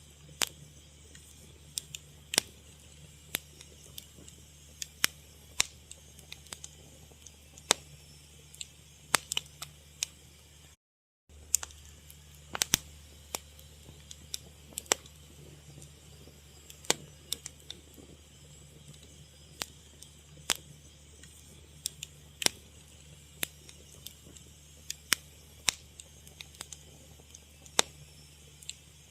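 Fire crackling: sharp, irregular snaps and pops, several a second at times, over a steady low hum, with the sound cutting out completely for about half a second around eleven seconds in.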